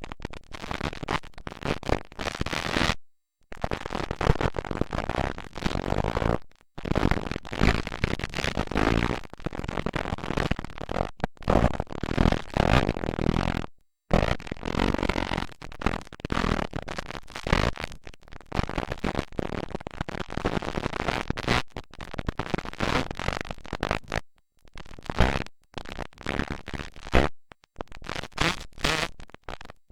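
Dirt bike engines at a motocross track, harsh and distorted on a camcorder microphone, cutting out suddenly to silence about five times.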